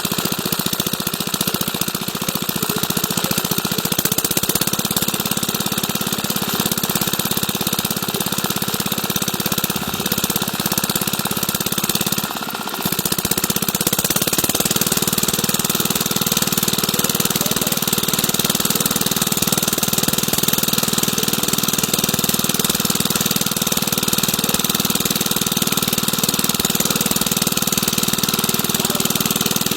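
Diesel engine driving an irrigation water pump, running steadily with rapid, even firing beats. The sound drops briefly in level about twelve seconds in.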